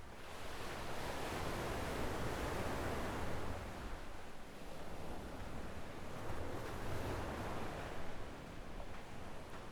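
Small ocean waves washing onto a sandy beach, the surf swelling and easing in slow surges.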